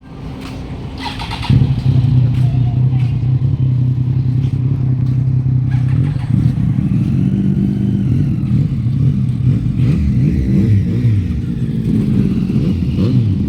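Motorcycle engine running at a steady idle, then from about six seconds in its pitch rises and falls again and again as it is revved.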